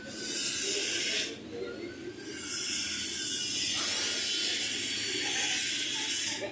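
Two loud bursts of hissing, like a jet of air or spray: one about a second long, then after a short gap one about four seconds long.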